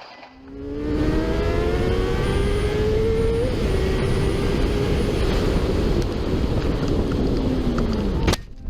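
Car engine accelerating, its pitch rising over the first three seconds, then running steadily under loud road and wind noise. A falling tone comes near the end before the sound cuts off abruptly.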